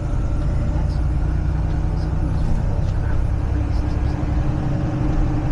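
Semi truck's diesel engine running steadily with a low hum.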